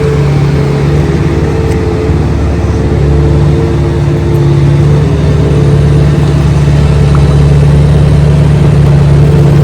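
An engine running steadily under a constant hum, growing slightly louder toward the end.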